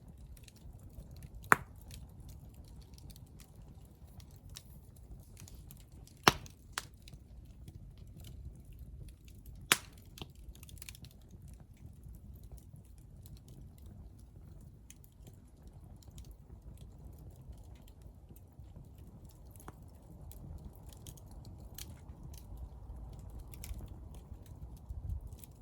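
Hardwood fire burning: a low steady rumble of flames with four sharp pops from the wood in the first ten seconds.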